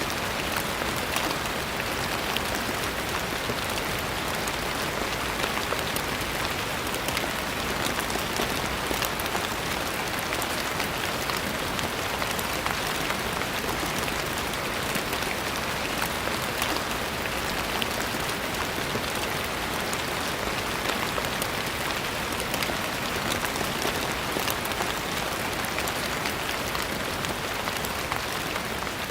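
Steady rain falling on a surface, a dense even hiss with many fine individual drop patters.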